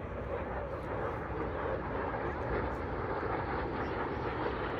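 Steady engine noise of a fixed-wing aircraft in flight.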